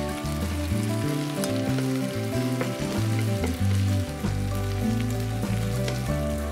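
Taro and bacon sizzling in hot oil in a frying pan, stirred with wooden chopsticks, with a few light ticks. Background music with steady, stepping notes plays underneath.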